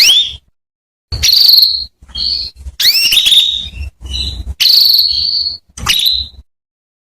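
Domestic canary hen calling: about seven short, high-pitched calls in quick succession, some rising sweeps and some buzzy trills, separated by brief gaps. This is the kind of hen call used to prompt male canaries to sing.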